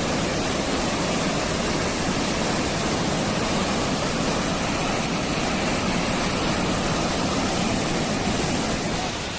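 Steady rush of churning water, with no distinct splashes or strikes, dropping in level just before the end.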